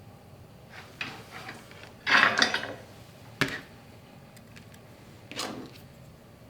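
Tools and small parts being handled: a brief rattling clatter about two seconds in, a single sharp click, then a short scrape.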